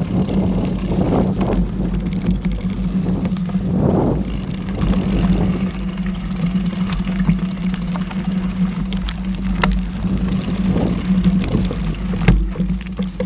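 Mountain bike rolling over a dirt trail: a steady low rumble of tyres and wind on the camera's microphone, with scattered knocks and rattles from the bike over bumps. A faint, thin, wavering high whistle comes in twice.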